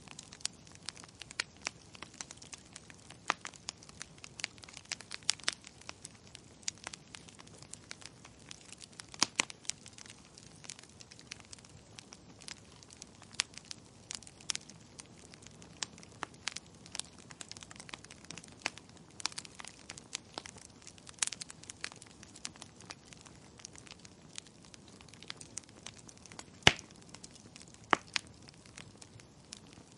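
Wood fire crackling in a fireplace: irregular sharp pops and snaps over a soft steady hiss. The loudest pop comes near the end.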